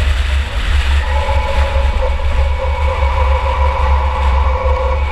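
Engine and road noise from a 2004 Chevy Impala enduro race car running at speed, heard from on board. A heavy, uneven low rumble runs throughout, and a steady whine comes in about a second in and holds.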